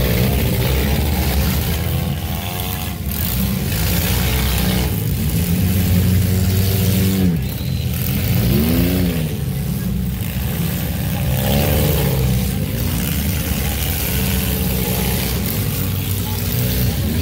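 Small demolition derby car's engine revving up and easing off again and again, heard from inside the cabin over constant loud mechanical noise.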